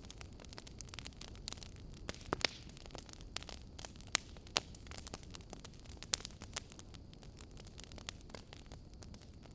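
Wood fire crackling in an open fireplace: irregular sharp pops and snaps over a low steady rumble of the flames, with a few louder pops about two and a half, four and four and a half seconds in.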